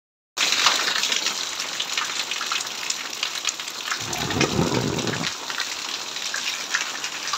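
Heavy rain falling: a dense steady hiss of rain with many sharp individual drop ticks, starting abruptly just after the beginning. About four seconds in, a low rumble sounds for just over a second.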